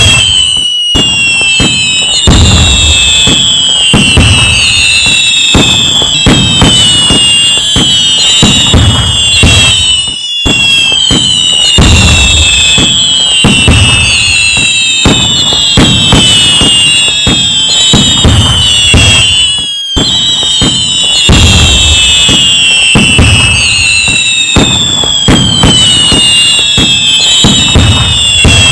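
Loud, dense fireworks display: many whistling shells whose whistles fall in pitch, over continuous crackling and low booms. The sound drops out briefly about every nine and a half seconds.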